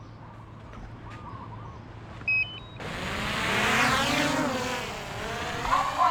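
A few short electronic beeps, then a vehicle passing close by, swelling and fading.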